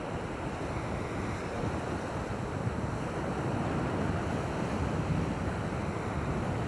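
Steady wash of shoreline waves mixed with wind on the microphone, an even rush with no distinct events.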